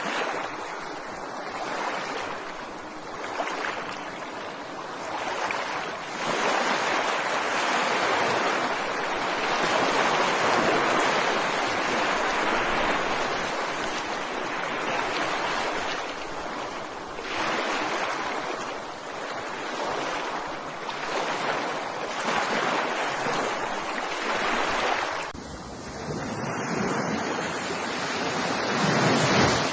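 Ocean surf: waves breaking and washing on a beach, a steady rushing that swells and ebbs every several seconds.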